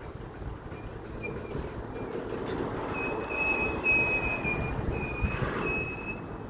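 CSX freight train rolling past with a low rumble from its cars. From about three seconds in, the wheels squeal against the rails in high, thin tones that come and go.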